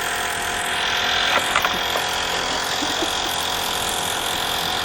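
Small engine of a homemade fibreglass boat running steadily as the boat gets under way.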